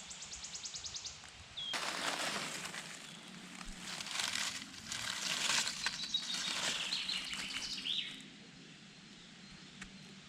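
Rustling of leaf litter and undergrowth underfoot as someone walks through the forest, from about two seconds in until about eight seconds in. A small bird gives a fast, high trill at the start, and a few high whistled bird notes sound over the rustling near the end.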